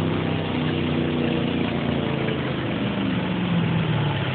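A pulling truck's engine running, its pitch falling about three seconds in.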